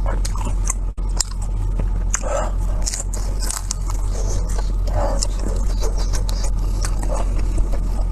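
Close-miked biting and chewing of air-fried pork intestines, with scattered wet mouth clicks over a steady low hum.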